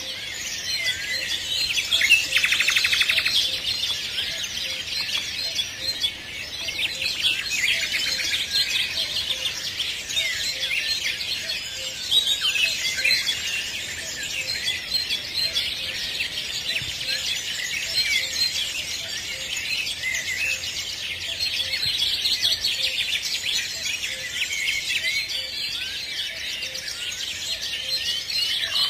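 Many birds chirping and singing at once, a dense, continuous tangle of short high chirps and trills.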